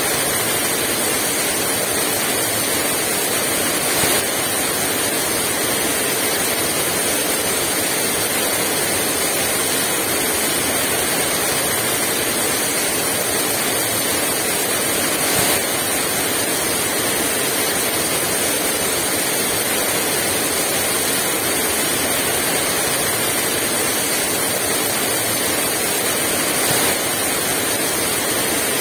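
Heavy rain pouring steadily, a dense even hiss, with three brief moments where it swells slightly louder.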